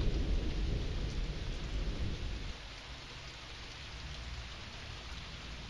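Thunder rumbling and dying away over the first two seconds or so, over steady rain hiss that carries on alone after that.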